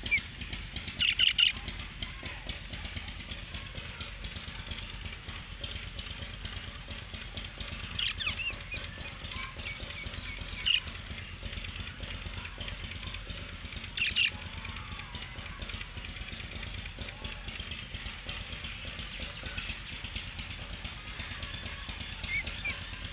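Small pet parrots chirping: a few short, sharp high calls scattered through, the loudest cluster about a second in, over a steady low background hum.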